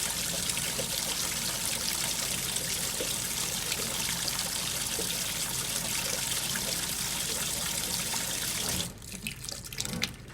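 Water running inside an AQUA 5 kg coin-operated washing machine, a steady rush over a low hum, stopping suddenly about nine seconds in.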